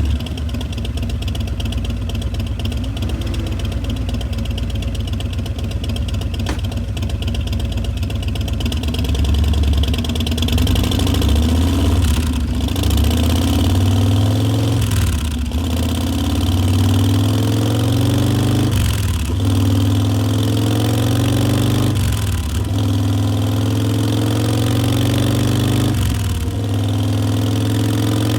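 2018 Harley-Davidson Breakout's Milwaukee-Eight V-twin running through Vance & Hines Twin Slash mufflers, idling steadily just after start-up. From about halfway through, it is given five short throttle blips a few seconds apart, each a brief swing in engine pitch before it settles back to idle.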